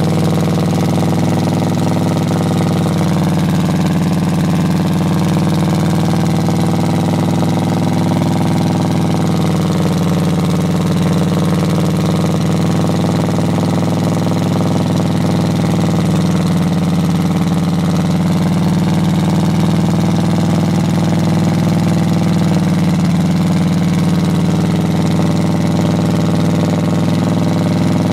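1973 Chevrolet Monte Carlo's V8 idling steadily while still cold, shortly after a cold start, with a slight slow waver in its note.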